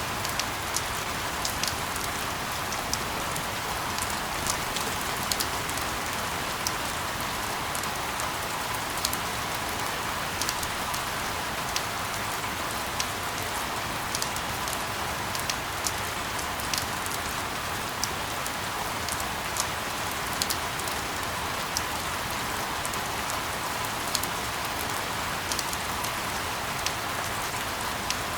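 Steady rain falling, an even hiss with many separate drops ticking sharply throughout.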